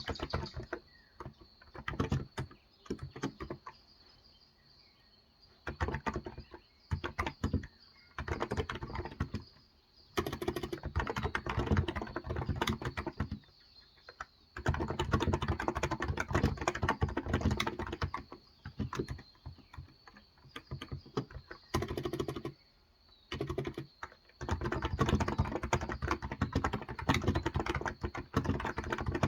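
Fast typing on a Cox Endeavor 35 g tenkeyless electro-capacitive (Topre-style) keyboard: dense runs of keystrokes broken by brief pauses of a second or two, the longest about four seconds in, around fourteen seconds in and near twenty-three seconds.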